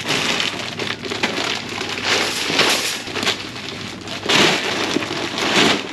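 Large plastic bags of dog food being handled and loaded into a shopping cart, crinkling and crunching in several loud bursts.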